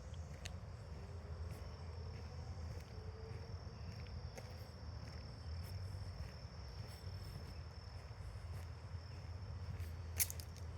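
Insects trilling in one steady, high-pitched tone, over a low rumble with faint footstep ticks and a sharper crunch about ten seconds in.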